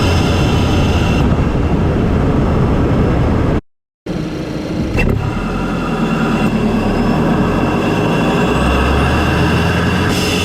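Intake and engine noise from a Volkswagen MK7 Golf GTI's turbocharged 2.0-litre four-cylinder, fitted with a CTS cold air intake, recorded in the engine bay while driving. It is loud and steady, and cuts out for about half a second a little over three seconds in.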